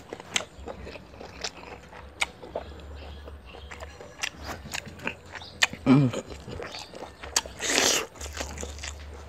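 Close-up chewing of a fresh rice-paper spring roll: wet mouth clicks and smacks scattered throughout. A short hum comes from the eater about six seconds in, and a loud breathy noise follows near eight seconds. A faint steady low hum runs underneath.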